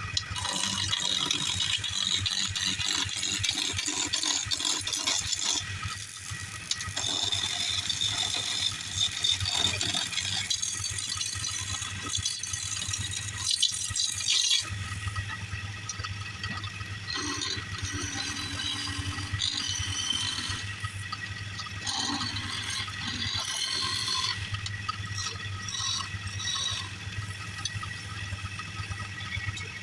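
Wood lathe running with a steady low hum while a turning tool cuts the spinning wood, an uneven hiss of cutting that changes character about halfway through.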